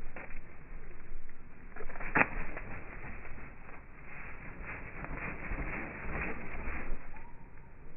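Slowed-down sounds of birds at a feeder: a sharp knock about two seconds in, then a run of soft, evenly spaced pulses, two or three a second, for about three seconds.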